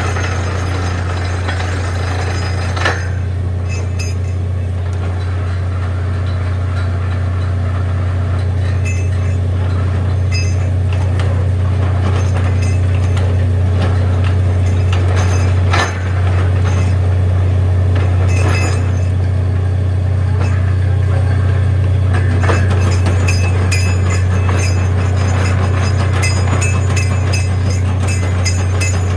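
Borewell drilling rig running with a steady low drone, with a few sharp metallic clinks over it.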